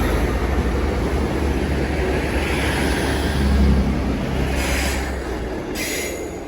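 Two coupled Class 158 diesel multiple units passing along the line, a steady rumble of engines and wheels on rail that dies away near the end. A brief high squeal comes about five seconds in.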